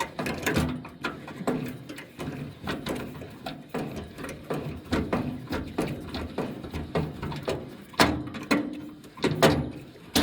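Irregular clicks, clinks and knocks of hand-tool work on a golf cart, such as a screwdriver and small parts being handled, with two louder knocks near the end.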